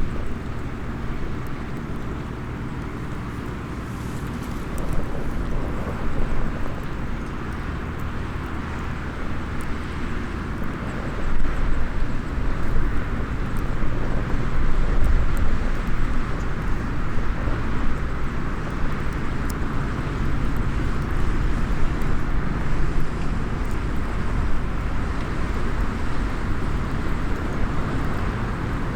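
Small wood fire in a SOTO mini hexagonal fire stand, crackling with scattered faint ticks and pops, over a steady low outdoor rumble that is louder than the fire.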